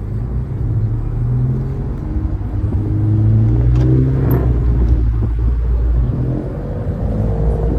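Car engine running as the car pulls away, a low rumble whose pitch rises and falls.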